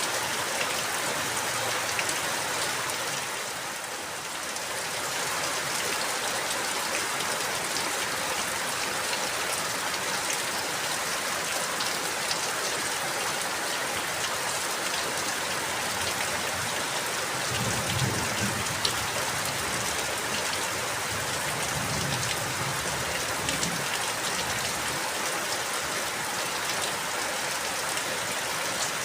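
Steady rain falling, an even hiss with scattered drop ticks, briefly softer about four seconds in. A faint low rumble comes and goes in the second half.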